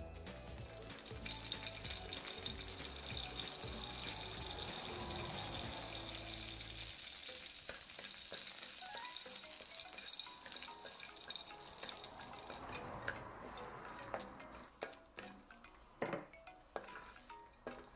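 Dried red chillies sizzling in hot oil in a metal wok while being stirred with a wooden spatula. The sizzle dies down about thirteen seconds in, leaving a few sharp taps of the spatula against the wok.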